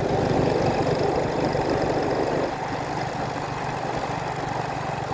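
A vehicle engine running steadily with a low hum, dropping a little in level about two and a half seconds in.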